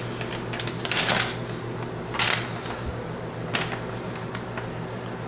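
Paper and packaging being handled, with a few short rustles and taps, the loudest about a second in and again a little past two seconds in.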